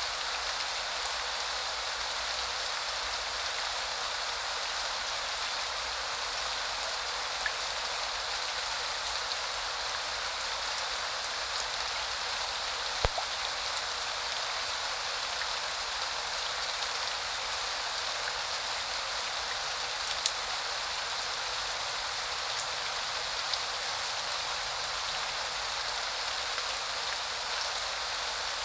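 Steady rain falling in an even hiss, with a few louder single drips or taps; the sharpest comes about halfway through.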